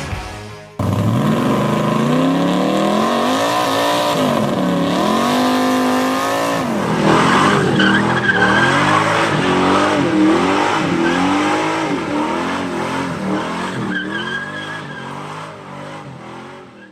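Custom Dodge pickup's engine revving up and down repeatedly with tyres squealing: a burnout, the rear tyres spinning. It starts abruptly and fades out near the end.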